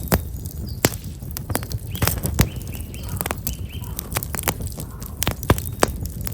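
Wood fire of black locust logs crackling, with sharp irregular pops over a low rumble. A small bird chirps a quick run of notes around the middle.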